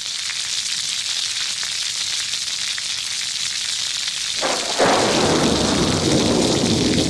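Steady heavy rain, with a rumble of thunder breaking in about four and a half seconds in and rolling on.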